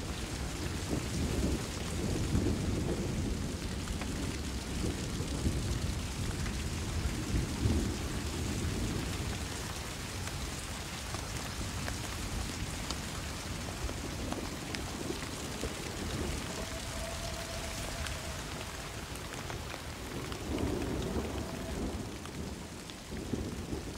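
Steady rain falling on forest foliage, with low rumbles of thunder that swell and fade now and then.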